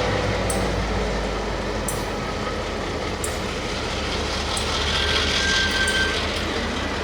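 Railway locomotive running with a steady low rumble and hum, a faint high tone coming in about five seconds in.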